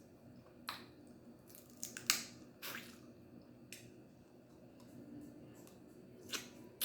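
Snow crab legs and claw shells being cracked and snapped open by hand: a series of sharp, irregular cracks and clicks with wet squishing, the loudest about two seconds in.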